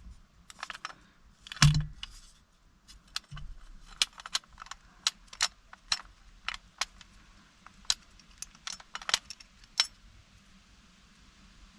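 Old ignition lock assembly and key being handled, giving a run of sharp metallic clicks and jingles. The loudest is about a second and a half in, and they stop about ten seconds in.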